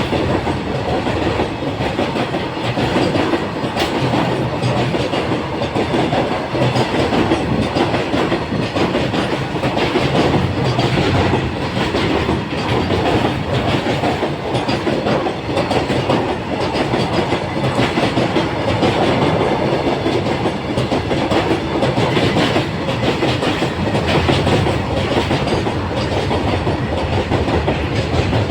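Long freight train rolling past at close range: a steady rumble and rattle of wagons, with the wheels clacking over the rail joints.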